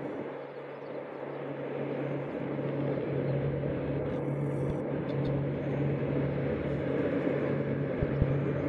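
A steady low mechanical drone with a constant low hum, with a brief hiss about four seconds in.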